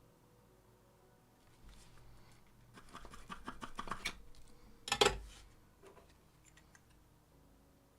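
Rapid scratching strokes for about a second, then a single sharp knock about five seconds in.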